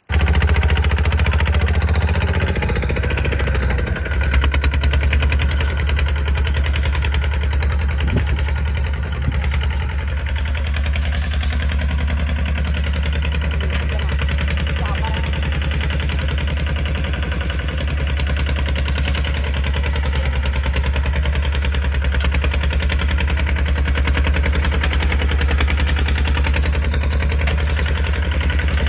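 Kubota RT155 single-cylinder diesel engine of a tractor running steadily with a rapid, even beat.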